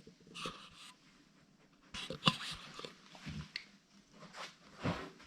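Siberian husky eating, with irregular short chewing and smacking sounds.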